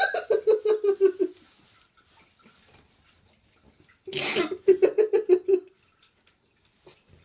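A person laughing in two fits, each a sharp burst of breath followed by quick, evenly spaced "ha" pulses, with a quieter pause between them.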